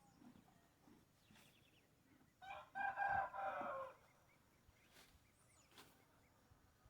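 A rooster crows once, starting about two and a half seconds in: a single call of about a second and a half that drops in pitch at the end.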